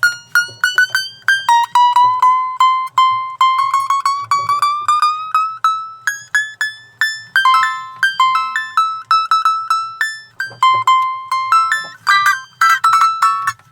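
Donner DUC4E concert ukulele being tuned. One string is plucked again and again while its pitch slides steadily up as the peg is turned. From about six seconds in, the strings are plucked in turn at a few different pitches to check the tuning.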